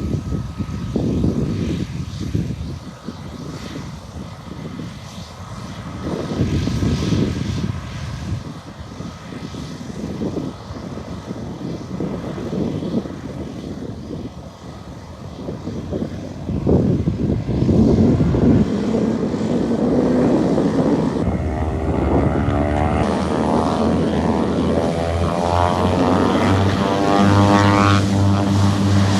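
A small aircraft taking off: engine noise swells about two-thirds of the way through and stays loud, with a sweeping, phasing sound as it passes and a steady low drone near the end.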